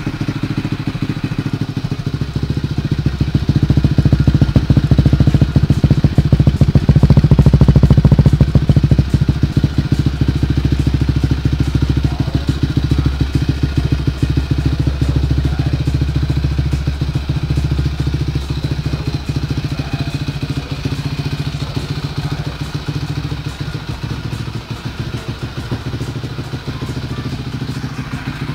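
Suzuki LTR 450 quad's single-cylinder four-stroke engine running steadily through an Akrapovic Evolution full exhaust, the individual exhaust pulses audible. It grows louder a few seconds in, then slowly softens.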